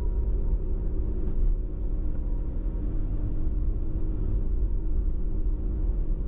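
Toyota HiAce van driving: a steady low road and engine rumble.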